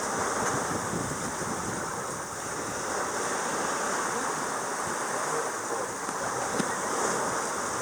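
Sea water rushing along the hull of a sailboat under way, a steady wash without a break.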